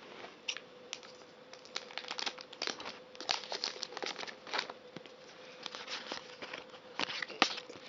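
Crinkling and rustling of a foil Pokémon card booster pack wrapper being handled, in short irregular crackles, over a faint steady hum.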